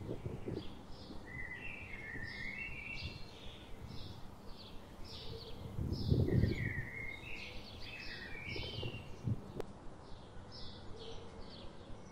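Small birds chirping in quick repeated notes over a low outdoor rumble, which swells briefly about six seconds in.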